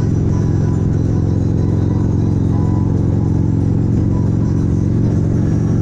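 Motorcycle engine running at a steady speed while riding, its low drone holding constant, with road and wind noise over it.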